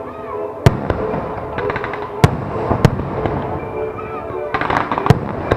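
Aerial fireworks shells bursting over the sea: five sharp booms, with two spells of dense crackling from crackle stars, over music with steady held notes.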